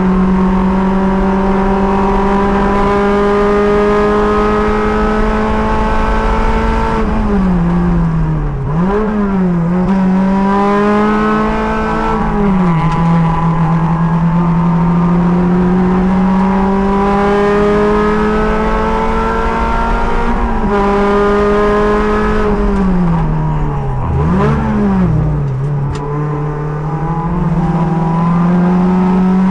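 Race car engine heard from the driver's seat, held at high revs down the straights. Twice it drops off sharply with quick rev blips, as on braking and downshifting into a corner. Each time it then climbs steadily again under acceleration.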